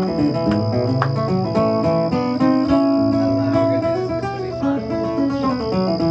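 Live country band playing an instrumental intro, with guitars to the fore over a steady bass and drums.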